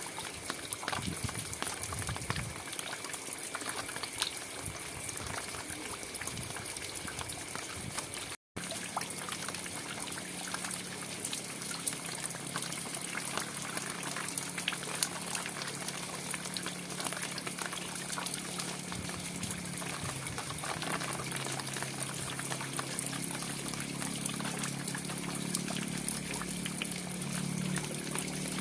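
Steady rain falling, with many sharp drips and trickling water. It cuts out for an instant about eight seconds in; after that a low steady hum runs underneath and grows stronger near the end.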